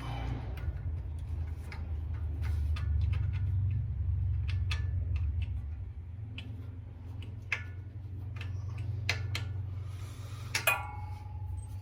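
Wrench and bolts clinking on metal while the power steering pump bracket bolts are worked loose: scattered sharp metallic clicks and taps, with a louder ringing clink near the end, over a steady low hum.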